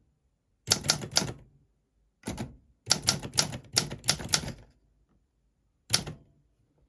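Keys of an Olympia SM4 manual typewriter striking the platen in short bursts of sharp clacks with pauses between: a few strokes about a second in, a quicker run of about eight strokes from about three to four and a half seconds, and a single stroke near the end.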